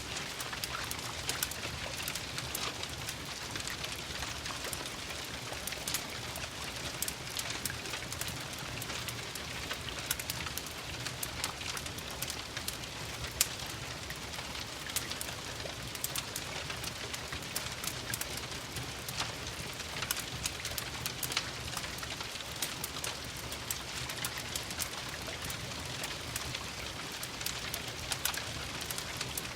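Steady rain with scattered sharp crackles from a wood fire in a fireplace.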